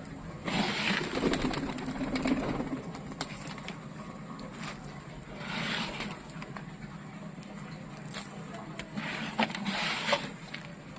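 Pigeons cooing, with scattered sharp clicks and bursts of rustling over a steady high hiss.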